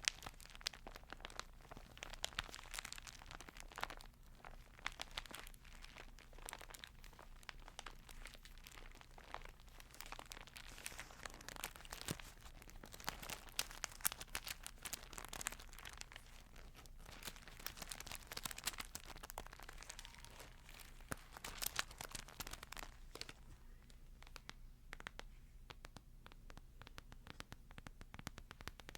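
Close-up crinkling and rustling as a Bible's thin pages are handled: a dense, continuous run of small crackles and clicks.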